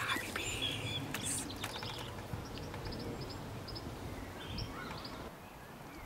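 Garden ambience with small birds chirping: a few short, high chirps in quick runs over a steady low background noise.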